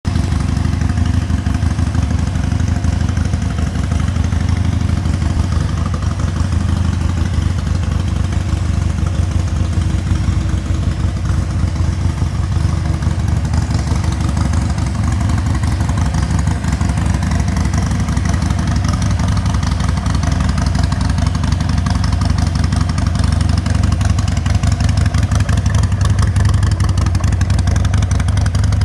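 Harley-Davidson Sportster Iron 883's air-cooled 883 cc V-twin idling steadily, with an even low pulse.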